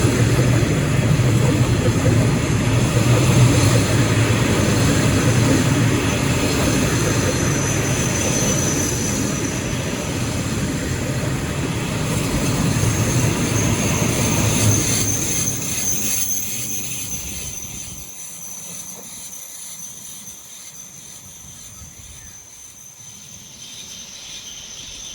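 Container freight train rolling past on the track: a steady low rumble of wheels and wagons, with a thin high whine now and then. The rumble fades away over the last third as the train moves off.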